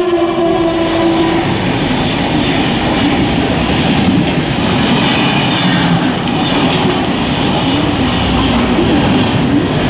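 Mumbai suburban electric local train running along the platform: a steady loud rumble and clatter of wheels on rails. A held tone dies away about a second and a half in.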